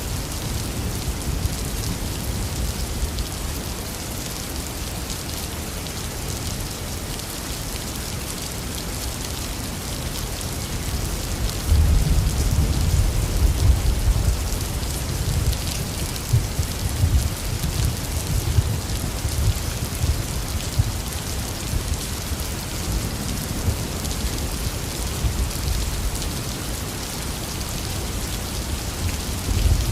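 Intense rain falling steadily, with a long low rumble of thunder that rolls in about halfway through and dies away over the next dozen seconds; another rumble begins at the very end.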